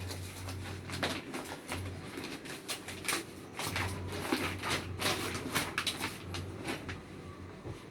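Plastic packaging and cloth rustling and crinkling in quick irregular crackles as a folded tracksuit is unwrapped, with a low hum that comes and goes.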